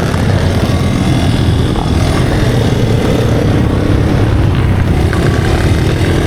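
Motorcycle engine running, a steady dense low rumble with no pauses.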